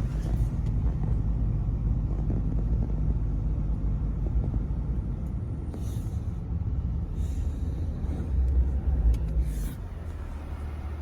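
Low, steady rumble of a car driving, heard from inside the car, with a few brief hisses. The rumble drops in level near the end.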